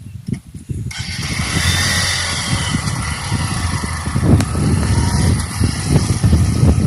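A motor vehicle on the move with its engine running, and wind rushing over the microphone that cuts in suddenly about a second in.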